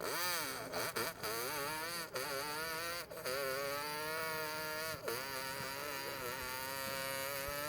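Two-stroke motocross bike engine revving, its pitch rising and falling with short breaks about every second or so, like throttle blips and gear changes.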